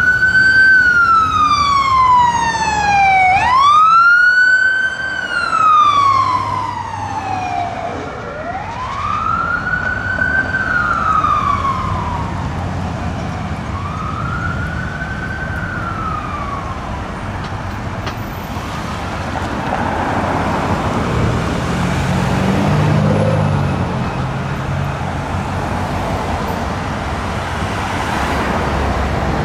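Emergency vehicle siren on wail, each cycle rising quickly and falling more slowly, about every four seconds, fading away over the first fifteen seconds or so. Then vehicle engine and road noise, with a low rumble of a passing vehicle about two-thirds of the way in.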